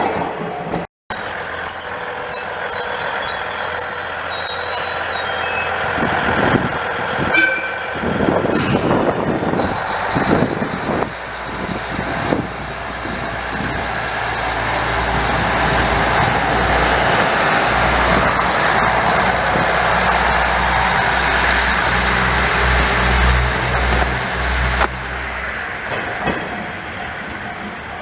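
A train running on the line, a steady rumble of wheels and machinery that deepens in the second half. There are a few short high-pitched tones just after a brief break about a second in.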